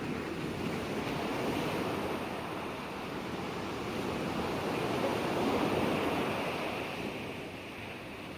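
Ocean waves breaking and washing in, a steady rushing surf that swells twice and eases off near the end.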